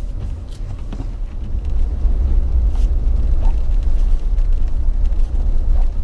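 Jeep driving on snow-covered town streets: a steady low rumble of engine and tyres on the road, growing louder about two seconds in.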